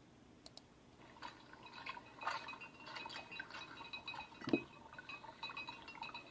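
Faint irregular handling noises: small clicks, taps and rustles, with one duller knock about four and a half seconds in.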